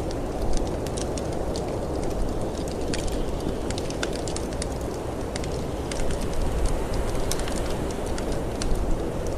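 A wood fire crackling in a fireplace, with frequent irregular sharp pops, over a steady low rush of blizzard wind.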